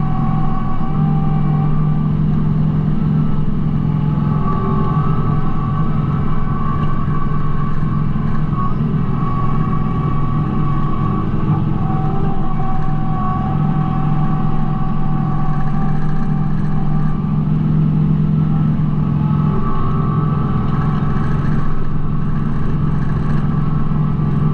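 Kubota B2650 compact tractor's three-cylinder diesel engine running steadily under working load, with higher whining tones that shift in pitch every few seconds.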